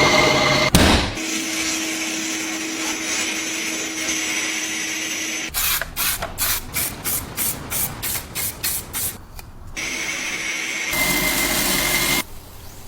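Workshop tools at work on a rusty metal cheese grater: a power tool running steadily, a sharp knock about a second in, then a run of regular strokes at about three a second, and a machine running again near the end.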